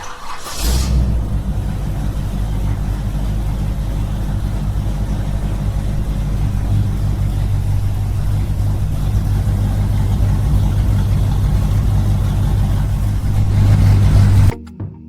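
Small engine running steadily at constant speed, a deep even drone that grows slightly louder and then cuts off suddenly near the end.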